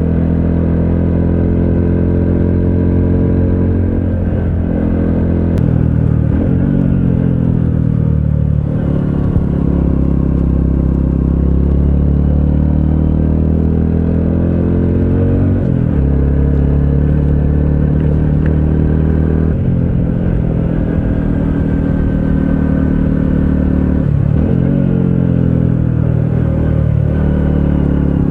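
Honda CT125 Hunter Cub's single-cylinder engine running under way. The engine note rises and falls with the throttle, with brief drops in pitch about four times as the rider shifts gears or rolls off.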